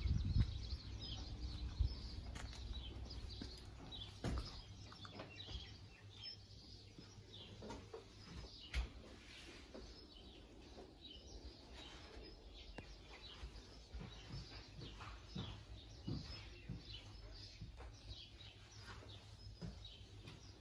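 Small birds chirping faintly and repeatedly in the background, with a few scattered knocks.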